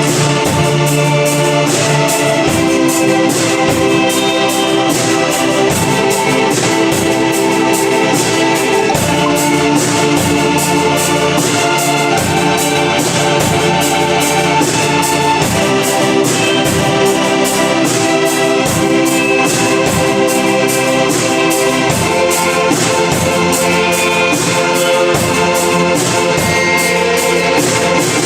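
Live band music: an instrumental passage of held chords over a steady beat, with no singing.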